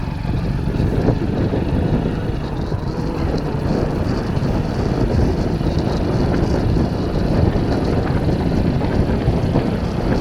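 A vehicle running: a steady low rumble with no breaks.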